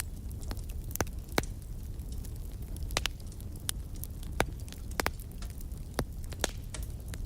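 Wood fire in a fireplace crackling: sharp, irregular pops about once a second over a steady low rumble of the flames.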